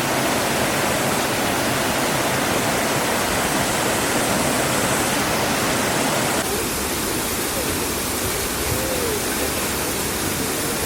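Waterfall rushing, a steady roar of falling water. About six and a half seconds in the sound changes abruptly and becomes less hissy and more muffled.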